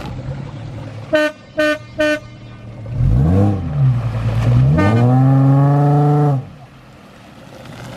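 A car horn beeps three short times, then an engine revs hard, dips, and revs up again, holding high for a second or two before dropping back to idle.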